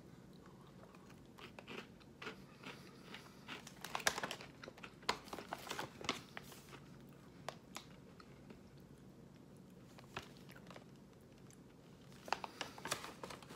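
Close-up chewing and crunching of pieces of chocolate-covered s'mores snack mix, with short crunches scattered through and a cluster of crackles near the end. A plastic snack bag crinkles now and then.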